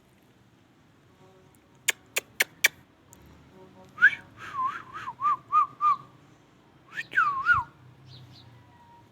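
Four sharp clicks, then a ringneck parrot whistling: a run of five short, swooping whistled notes about four seconds in and a longer bending whistle about seven seconds in.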